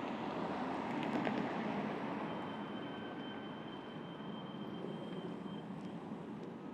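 Steady outdoor traffic noise, with a faint thin high tone through the middle.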